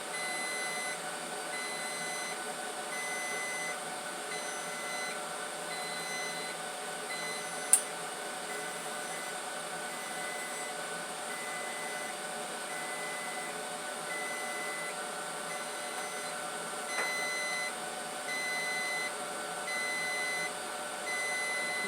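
An electronic warning beep repeating about once a second over a steady electrical hum, with one sharp click about eight seconds in. No engine is running.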